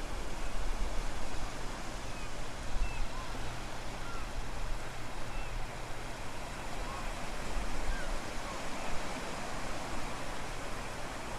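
Steady wind and low-tide ocean surf making an even rushing noise, with wind buffeting the microphone as a low rumble. A few faint, short high chirps are scattered throughout.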